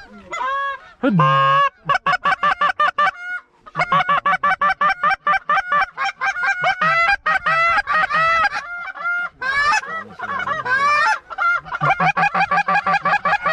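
Loud goose honks and clucks in rapid succession, many short calls one after another, with a brief pause about three seconds in.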